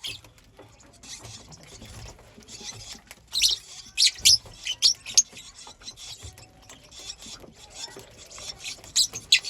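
Lovebirds chirping: short, sharp, high-pitched chirps in quick clusters, a few about a third of the way in, several around the middle and a pair near the end, over a soft steady hiss.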